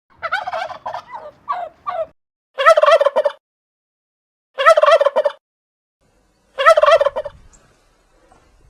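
Turkey gobbling: a run of shorter, softer calls, then three loud rattling gobbles about two seconds apart.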